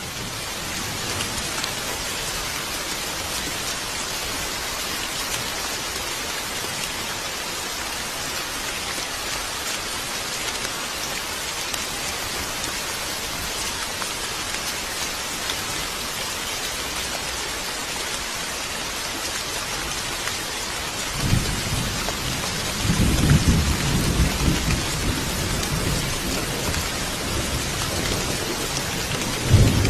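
Steady rain falling. About two-thirds of the way through, low rumbling thunder comes in and keeps going, swelling again near the end.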